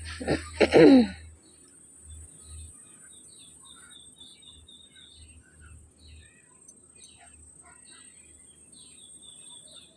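A short vocal sound in the first second, then quiet background with faint, scattered bird chirps.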